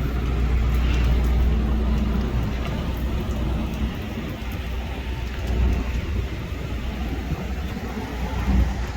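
Road traffic on a wet street: vehicles passing with a steady low rumble and tyre noise.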